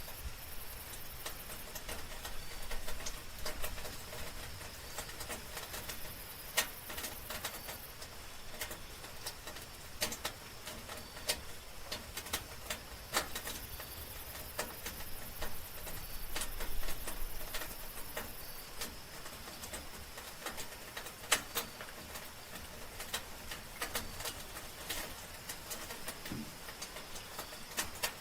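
Soft rain falling steadily, with many single drops ticking close by at irregular moments. A thin, very high steady trill, typical of night insects, sounds in stretches of a few seconds and drops out between them.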